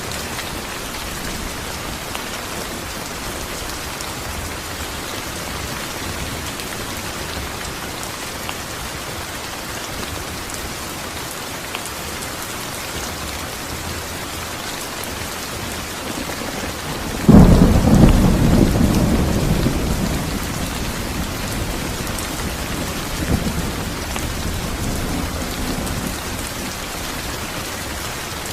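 Steady heavy rain falling, with a loud clap of thunder about two-thirds of the way through that rumbles and fades over several seconds, then a smaller rumble.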